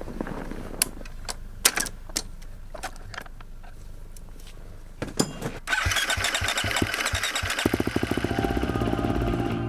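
A few sharp clicks and knocks. About six seconds in, a dirt bike engine cranks with a few spaced thumps, catches, and settles into a fast, even idle.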